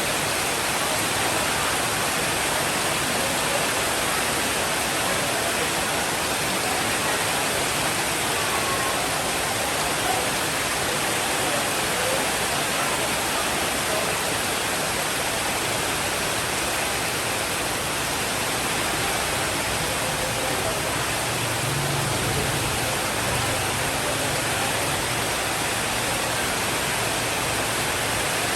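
Steady, even rainfall. A faint low rumble joins in about two-thirds of the way through.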